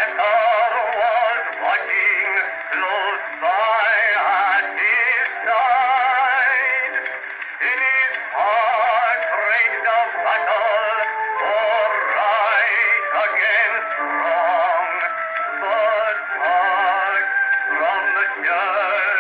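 Edison Amberola 30 cylinder phonograph playing a Blue Amberol cylinder. It is an early acoustic recording of a man singing a gospel song with wavering vibrato over accompaniment. The sound is thin, with no deep bass.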